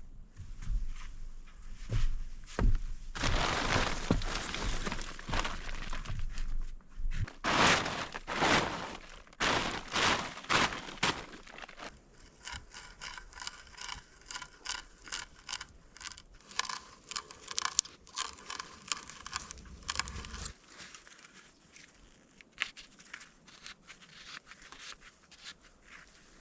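Hands-on work with wood: irregular knocks, scrapes and crunching. It turns to quicker, lighter ticking and scraping about halfway through and grows quieter for the last few seconds.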